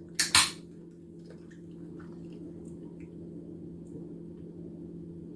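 Close-up mouth sounds of chewing a stuffed zucchini boat: two short loud smacks right at the start, then quiet chewing with small mouth clicks over a steady low hum.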